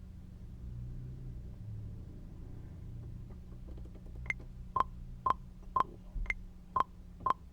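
Metronome clicking a count-in at about two clicks a second, the first of every four higher-pitched as the accent, starting about four seconds in over a faint low hum.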